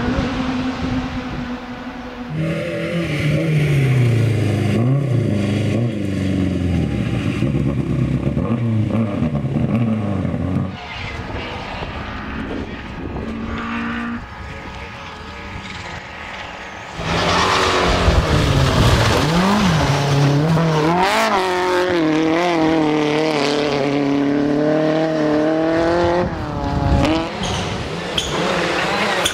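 Rally car engines at full attack, revving hard, with the pitch climbing and dropping through gear changes as cars pass. The sound changes abruptly several times between cars. It is loudest in the second half, where an engine is revved up and down rapidly.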